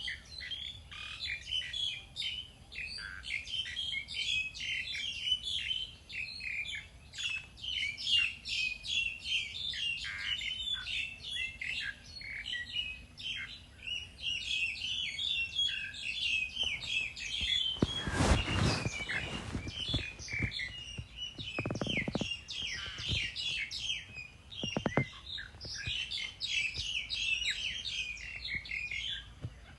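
Many small birds chirping and twittering at once, dense and continuous. About eighteen seconds in, a brief loud rustling noise lasts about a second, with smaller ones a few seconds later.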